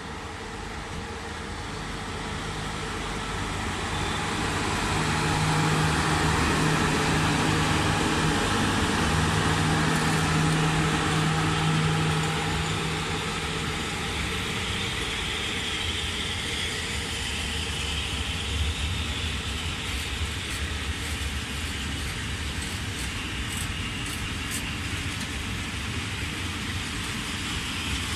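A train going by: a steady vehicle noise that builds over the first few seconds, carries a low steady hum until about twelve seconds in, then eases to a steady lower level with a few faint ticks near the end.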